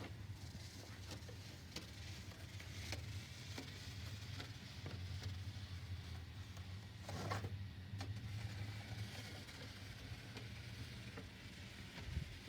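A snow shovel scraping and crunching as it pushes a thin layer of snow, in short irregular strokes with a longer scrape about seven seconds in, over a steady low hum.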